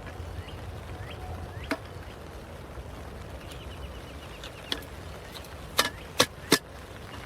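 A small hard-top folding table being set up: sharp clicks and knocks, three in quick succession near the end, over a steady low background noise.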